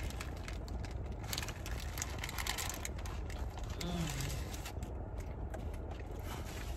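Close-up eating sounds: a double cheeseburger being chewed, with many small wet mouth clicks and the crinkle of its paper wrapper. Under them is a steady low rumble inside the car. A short hummed "mm" comes about four seconds in.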